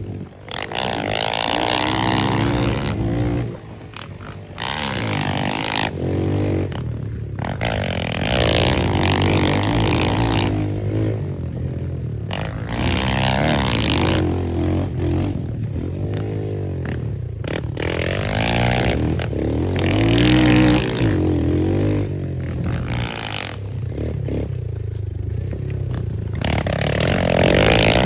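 Small single-cylinder pit bike engine being ridden hard, its pitch climbing and falling again and again as the throttle opens and closes. It drops quieter for about a second around the fourth second.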